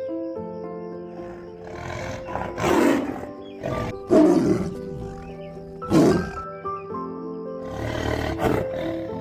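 An animal roaring over background music: about four loud, drawn-out roars, the loudest a little past four seconds in.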